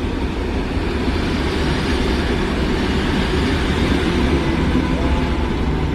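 A train running in along the platform track: a steady, continuous rumble of wheels and running gear on the rails.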